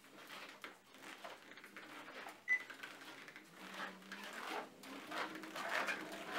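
Small irregular clicks, knocks and clatter of objects being handled, with one short high beep about two and a half seconds in.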